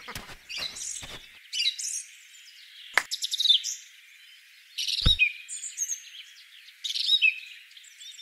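Small birds chirping and calling in short, high phrases throughout, with two short knocks, about three and five seconds in.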